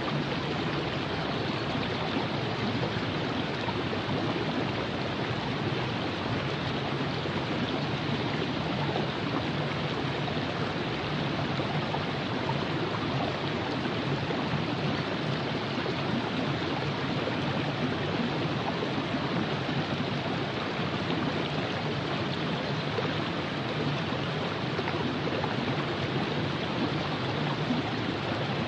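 Virgin River flowing over rocks: a steady rushing, burbling stream.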